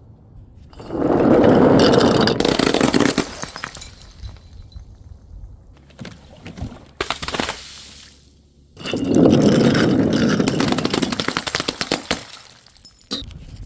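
Glass bottles smashing twice, about a second in and again about nine seconds in, each a loud crash followed by a spray of shards clinking and settling.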